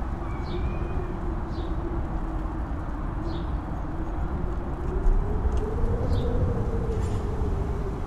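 Strong wind on a mountain top: a deep rumble with a howling tone that rises about two-thirds of the way through and falls again. Several short, faint, high chirps sound over it.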